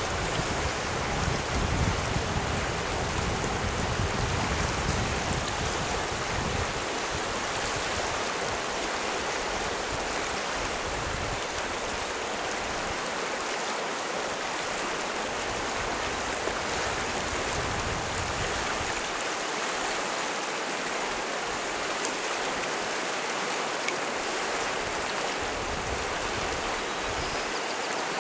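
The Hoh River rushing steadily, a constant hiss of flowing water. Low rumbles of wind on the microphone come and go, mostly in the first several seconds.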